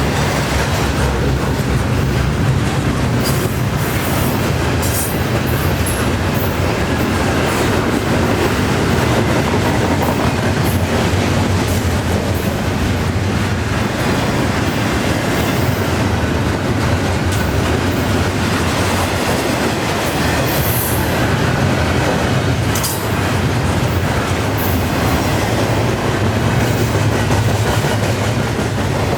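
Freight cars of a long CN container train rolling past at about 34 mph: a steady loud rumble and rattle of wheels on rail, with occasional brief high-pitched squeals.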